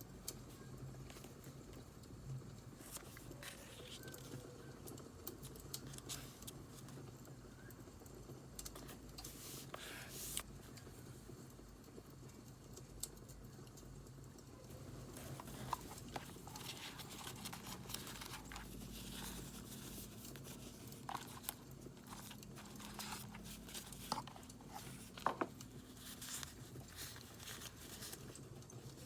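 Paper being handled, crinkled and torn during journal decorating, in short rustles and scattered sharp clicks, over the crackle of a burning wood fire and a steady low hum. The paper handling grows busier about halfway through.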